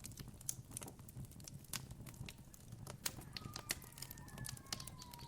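Campfire crackling, with irregular sharp pops over a low steady rumble of the burning fire. About three seconds in, a faint, long call from a distant bird slowly falls in pitch.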